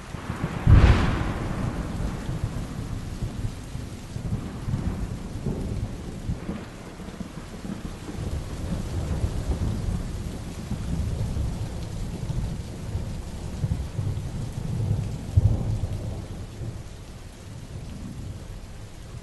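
Heavy rain falling steadily through a thunderstorm: a sharp thunderclap about a second in, then long low rumbling, with another strong peak of thunder about three-quarters of the way through.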